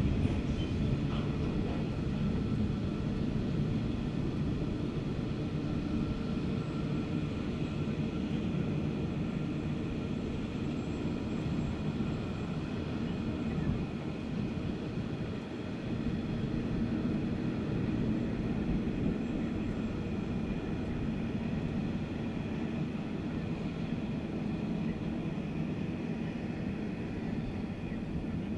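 Steady low rumble of a long empty iron ore train's wagons rolling on the track, with a faint steady whine above it.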